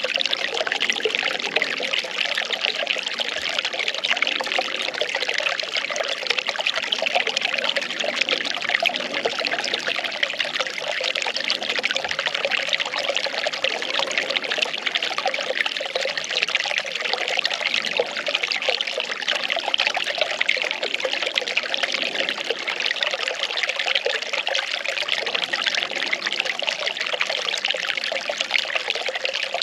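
Well water pouring and trickling steadily, a continuous even splashing.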